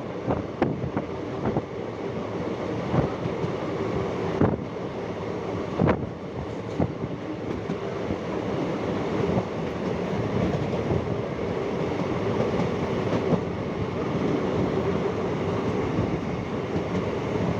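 Passenger train running along the track, heard from aboard a coach: a steady rumble of wheels on rails, with a few sharp knocks in the first half.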